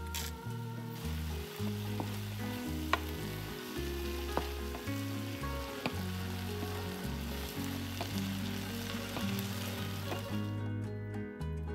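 Food frying in oil in a pan, with a steady sizzle and a few sharp clicks as it is stirred. Background music plays underneath, and the sizzle cuts off abruptly near the end.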